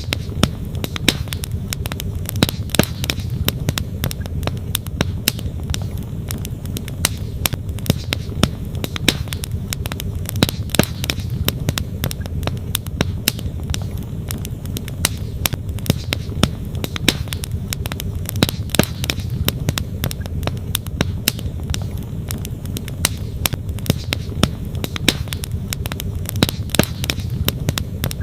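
Wood campfire crackling, with frequent sharp pops of burning logs, over the steady rush of a flowing stream.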